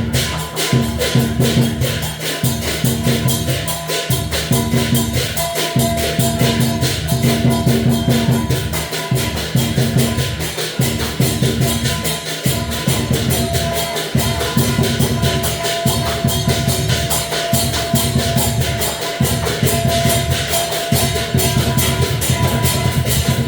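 Percussion music for a Chinese dragon dance: a drum beaten in fast, dense strokes with rapid cymbal clashes, the beat breaking off briefly about every two seconds.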